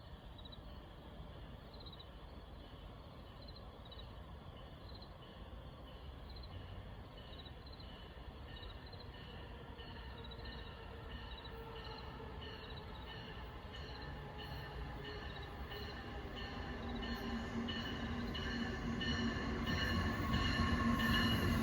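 Amtrak Northeast Regional passenger train approaching, its rumble and hum growing steadily louder. Regular insect chirping runs through it.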